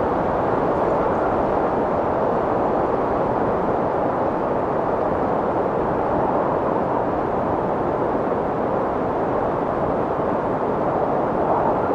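Strong wind blowing as a steady, even rush with no gusts.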